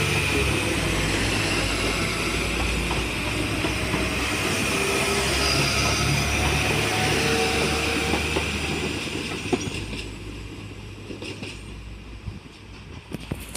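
A London Midland diesel multiple unit running past along the line and away. Engine and wheel noise stays loud and steady at first, then fades from about eight seconds in as the train draws off into the distance.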